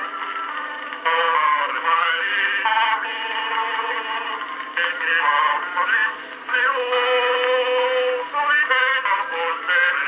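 Edison Standard Model B phonograph playing a 4-minute wax cylinder through a small test horn: an old sung tune with a thin, tinny sound, no bass and a faint surface hiss.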